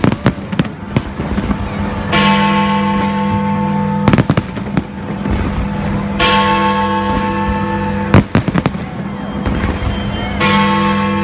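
Fireworks exploding in sharp bangs, a few close together, over loud music with sustained chords that change about every four seconds.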